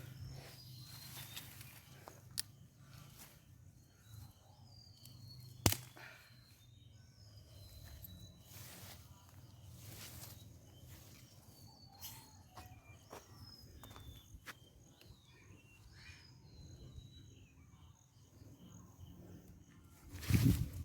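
Outdoor ambience of footsteps and rustling in vegetation, with small birds chirping now and then. There are a few sharp snaps, the loudest about six seconds in, and a louder burst of noise near the end.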